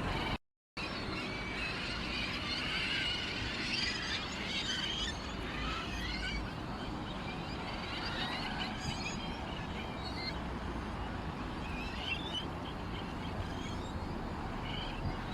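Small birds chirping and twittering in a busy chorus over a steady low background rumble, with the sound cutting out for a moment just after the start.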